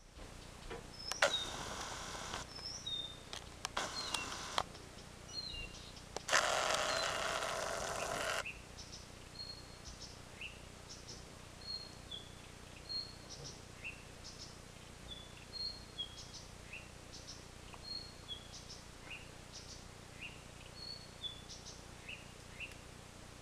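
A small bird calling with short high chirps, each dropping in pitch, about one a second. Three louder stretches of noise break in during the first eight seconds, the longest and loudest lasting about two seconds from a little past six seconds in.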